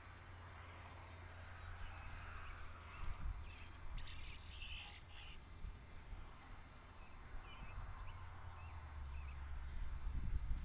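Birds calling, with a short cluster of high, scratchy calls about four to five seconds in and a few small chirps later, over a steady low rumble.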